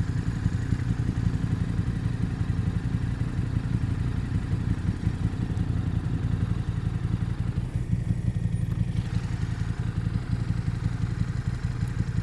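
Motorcycle engine running steadily at a constant low speed, with a strong, even, pulsing low note.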